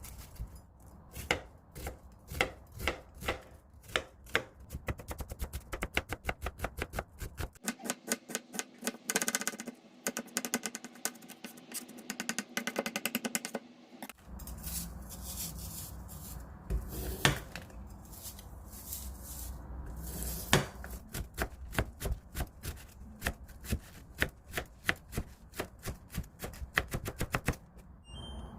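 Kitchen knife chopping food on a cutting board in a long series of knocks. The strokes become a fast run for several seconds about a third of the way in, then return to a slower, uneven pace.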